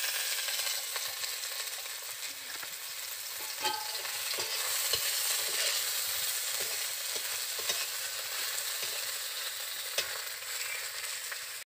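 Oil sizzling in an iron wok as onions fry. A metal spatula stirs them, scraping and tapping against the pan now and then.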